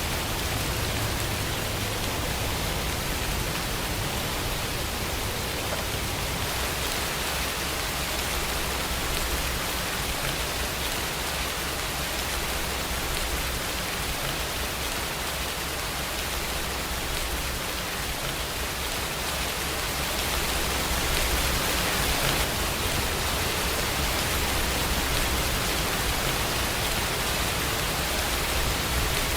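Steady rain, an even hiss with a low rumble beneath it, growing a little louder about two-thirds of the way through.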